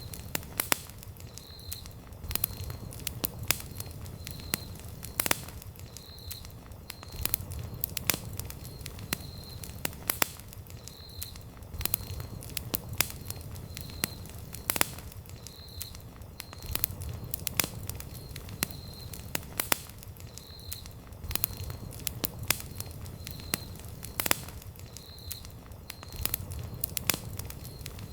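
Wood campfire burning: irregular sharp crackles and pops several times a second over the steady low rumble of the flames.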